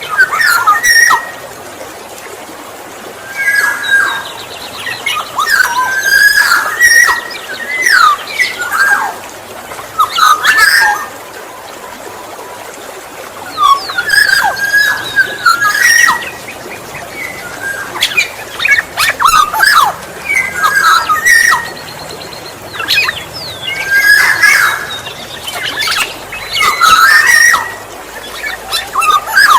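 Black-naped oriole singing: short phrases of fluty, sliding whistles mixed with harsher notes, repeated with brief pauses between them.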